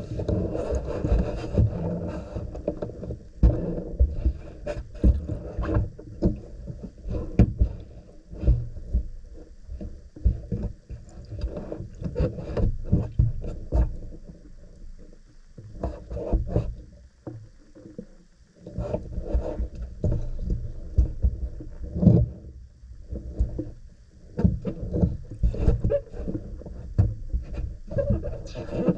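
Handling noise: things being moved and rubbed, with irregular light knocks and scrapes, quieter for a few seconds midway.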